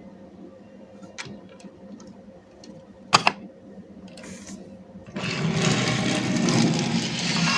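Die-cast toy cars being handled: a few light clicks and a sharp double click, then from about five seconds in a loud, continuous, rapid mechanical rattle, like small toy wheels rolling over a hard surface.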